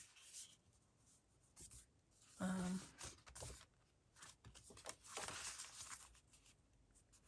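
Paper rustling and sliding in short, quiet bursts as sheets and journal pages are handled, with a brief voiced hum about two and a half seconds in.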